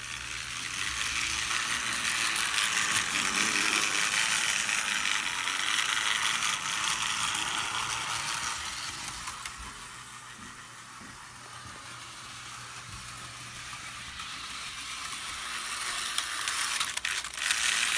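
HO-scale Thomas the Tank Engine model locomotive running on the track, its small motor whirring and its wheels clicking over the rails. It gets louder in the first few seconds, fades about halfway through, then comes close again near the end.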